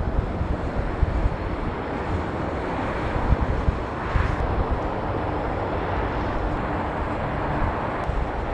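Jet airliner engines at takeoff power, a broad steady rumble that swells briefly about halfway through, with wind buffeting the microphone.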